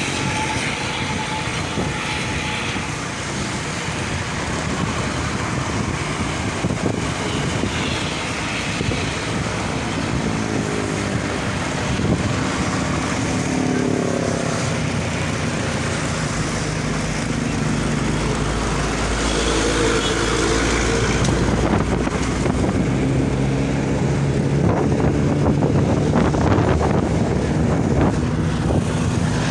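Busy road traffic passing close by: several vehicle engines running, some revving up and down, with a heavier low rumble for a few seconds in the middle.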